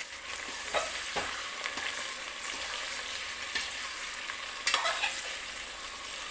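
Chicken pieces sizzling as they fry in hot oil with fried onions in a metal pot. A slotted metal spoon stirs them, knocking and scraping against the pot a few times; the loudest knock comes about four and a half seconds in.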